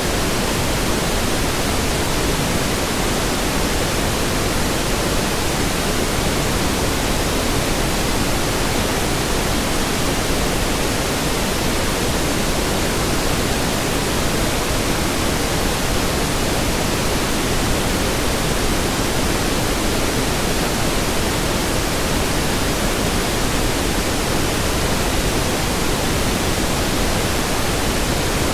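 Steady pink noise: an even, unchanging hiss spread across the whole range, fuller in the lows than white noise.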